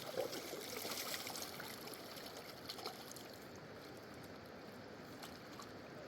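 Water trickling and lapping around a small boat, a steady gentle wash with a few faint ticks.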